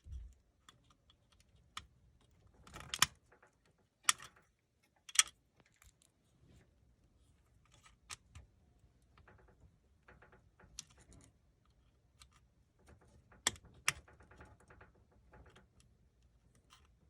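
Scattered sharp clicks and light handling noise from wire connectors, terminals and needle-nose pliers being worked on an HVAC control board. Three loud clicks come about a second apart a few seconds in, and two more close together later on.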